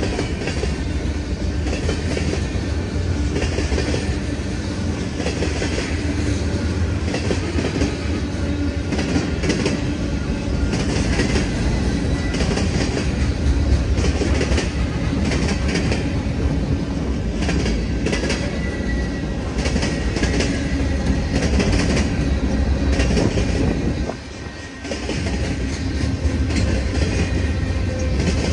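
CSX freight train rolling past, its wheels clicking rhythmically over the rail joints. The steady rumble briefly drops near the end.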